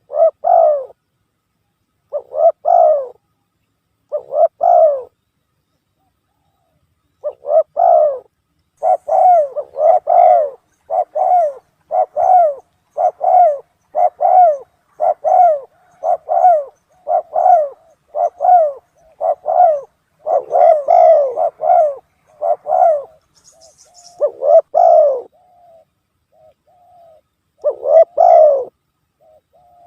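Spotted dove (tekukur) cooing, played as a bird-lure call: repeated low coo phrases, a few spaced out at first, then a fast run of about one note a second, pausing briefly near the end.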